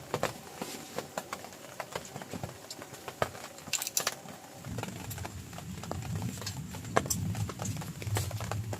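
Large raindrops tapping irregularly, one by one. About halfway through a low rumble comes in and slowly grows louder.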